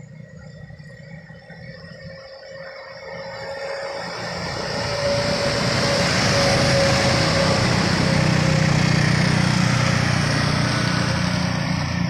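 Loaded sugarcane truck's engine running at full throttle, growing steadily louder over the first several seconds as it approaches, then staying loud.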